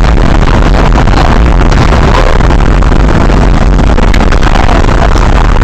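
Loud, steady, distorted vehicle rumble picked up by a dash camera, an even noise heaviest in the low range with no distinct impact.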